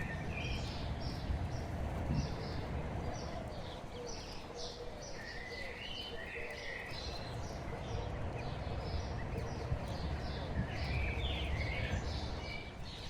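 Birds chirping: many short, high-pitched calls, several a second and without pause, over a steady low rumble.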